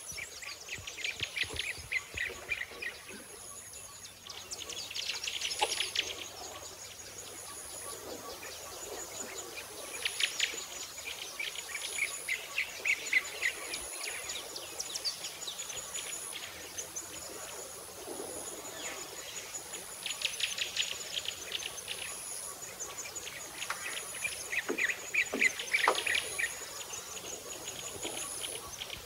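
Outdoor birdsong: rapid trills repeated every few seconds, over a high, thin note that repeats about once a second.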